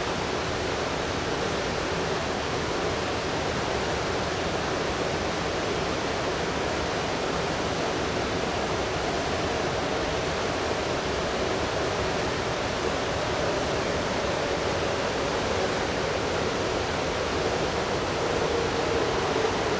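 Seibu 6000 series electric train approaching through a subway tunnel into the station: a steady rushing noise, with a faint hum that comes in around the middle and grows slightly louder near the end as the train draws in.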